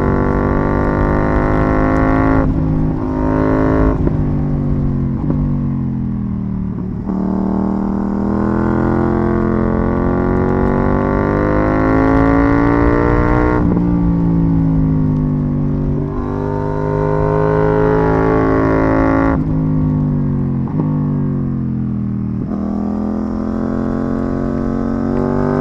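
KTM 790 Duke's parallel-twin engine breathing through an IXRace MK2 aftermarket exhaust while riding, the revs climbing and falling in long sweeps with sudden pitch jumps several times, as at gear changes or throttle changes.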